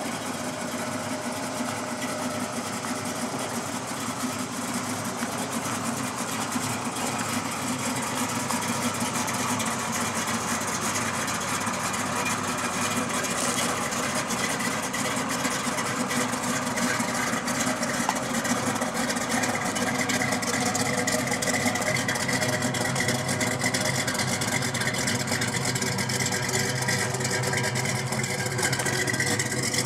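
A GM Performance Parts ZZ383 stroker small-block V8 idling steadily; its low exhaust note grows stronger in the second half.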